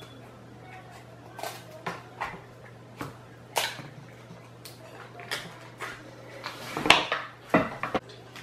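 Crab leg shells being cracked and pried open by hand: irregular sharp cracks and clicks, with the loudest cluster about seven seconds in.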